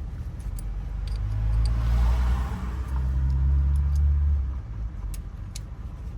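A motor vehicle going by close, its low engine rumble swelling about a second in and dropping away after about four and a half seconds, with a few light clicks over it.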